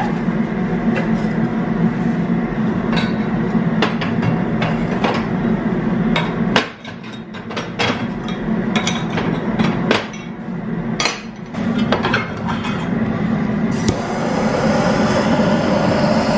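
Irregular knocks and metal clinks of firewood being loaded into a wood cook stove, over a steady low hum. A steady rushing noise joins for the last few seconds.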